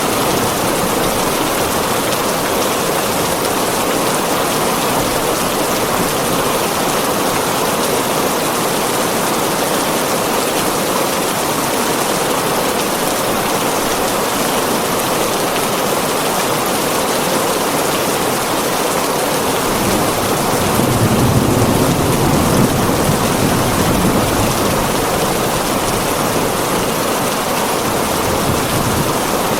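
Heavy rain drumming on a tin roof in a steady, dense patter. About two-thirds of the way through, a low rumble of thunder swells for a few seconds and fades.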